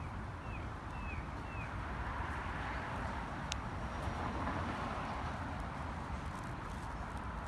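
Outdoor street ambience with a steady low rumble, three quick high chirps in the first two seconds, and a single sharp click about three and a half seconds in.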